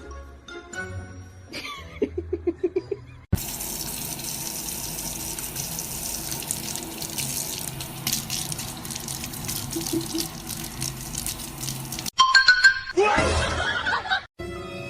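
Steady rush of running water, like a tap running, for about nine seconds, under background music. It starts suddenly about three seconds in after a short musical passage and cuts off near the end, where a brief louder burst follows.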